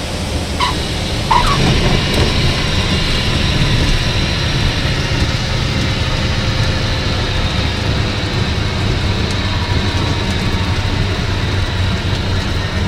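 Cessna 182 landing: steady engine and airflow noise heard from inside the cabin, with two short chirps about a second in as the tyres touch the runway, then steady rollout noise.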